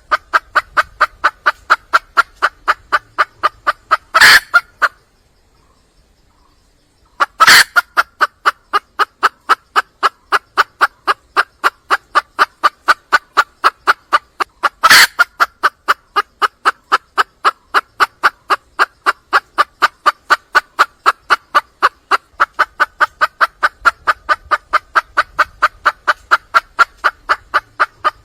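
Junglefowl hen clucking in a fast, even series of short calls, about three to four a second, calling for a mate. The calls stop for about two seconds roughly five seconds in, then resume, with an occasional louder call.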